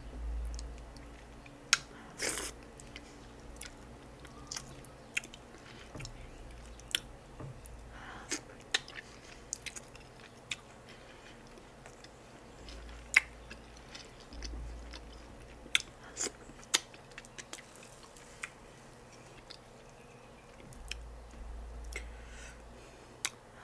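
Close-miked eating of garri with slimy okra soup by hand: chewing with many short, sharp wet mouth clicks and smacks scattered throughout.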